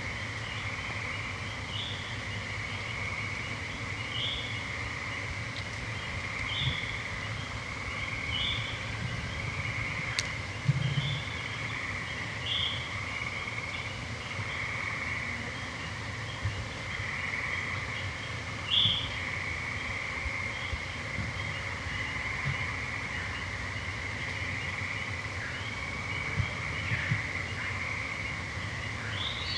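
Steady evening chorus of trilling gray treefrogs and American toads, with a short high call repeating about every two seconds over it.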